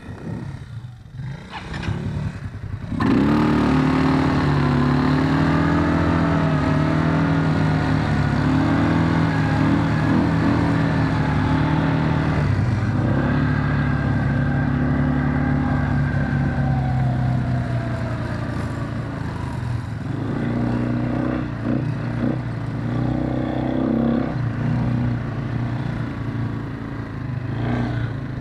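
Quad bike engine running under load, its pitch rising and falling with the throttle. It comes in suddenly and loudly about three seconds in, and its pitch drops and varies more in the last third.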